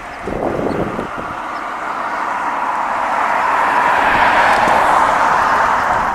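A passing vehicle: a rushing noise that swells over about four seconds and then fades, with wind buffeting the microphone in the first second.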